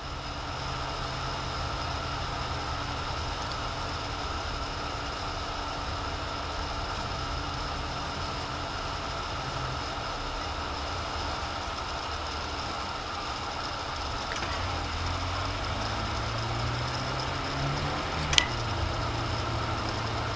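Vehicle engine running steadily with a constant hum. Its pitch rises a little about three-quarters of the way through, and there is a single sharp click near the end.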